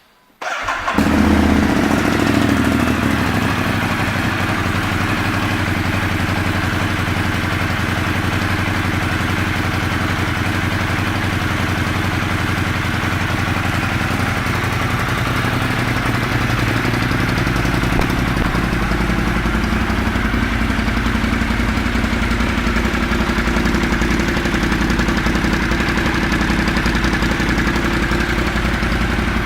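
A 2014 Ducati Monster 1200's L-twin engine, breathing through a full GPR aftermarket exhaust, starting about half a second in, running a little louder for a couple of seconds and then idling steadily.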